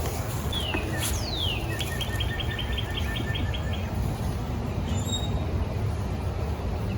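A songbird calling: two quick downward-sliding whistles, then a fast trill of about a dozen even notes lasting about two seconds. A steady low rumble runs underneath.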